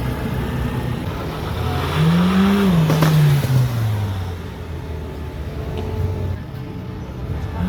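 Car engine revved once, its note climbing for about a second and then falling back over the next two, over a steady low engine rumble.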